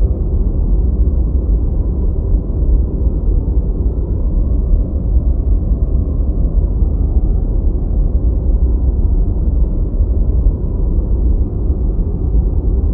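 Deep white noise: a steady, even hiss with the highs cut away, heavy in the low rumble, unchanging throughout.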